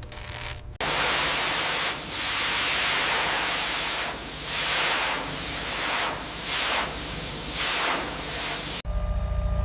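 A loud hissing spray that starts abruptly about a second in and cuts off near the end. It swells and fades in sweeps about once a second.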